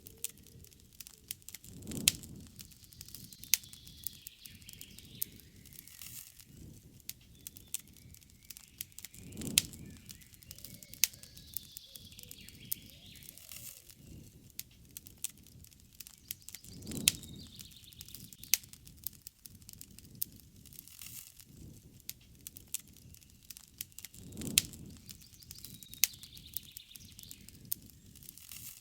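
Wood campfire crackling with frequent sharp pops, with a soft low rush of flame about every seven or eight seconds. Birds sing and chirp in the background at times.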